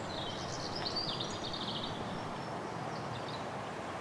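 A songbird singing a quick phrase of high notes in the first second or two, with a shorter burst near the end, over a steady background hiss.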